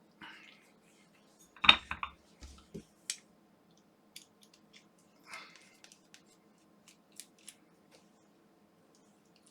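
Small tools and plastic parts clicking and tapping during bench work on a toothbrush's internals: a string of sharp irregular clicks with a few short scrapes, the loudest knock about two seconds in.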